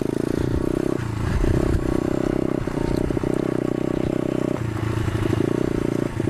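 125cc single-cylinder four-stroke pit bike engine running under throttle while riding, its note breaking off briefly about four times, as at gear changes or throttle lifts.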